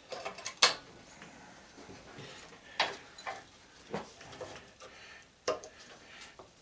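Scattered sharp metal clanks and clicks of hand tools being handled on the sander's metal parts, about six separate knocks with the loudest one near the start.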